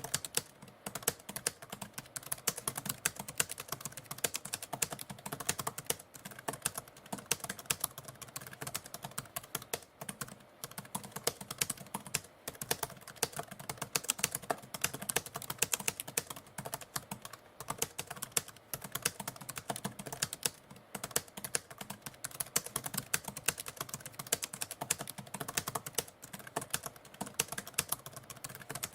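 Typewriter keys being typed in a fast, continuous run of sharp clacks, several strikes a second with no long pauses.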